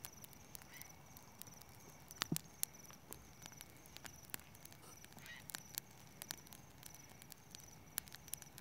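Bonfire crackling with irregular sharp pops, a few louder ones about two seconds in, over the steady pulsing chirps of crickets.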